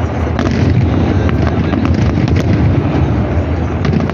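Loud fireworks display: a continuous barrage of overlapping bangs and crackles with no pause between them.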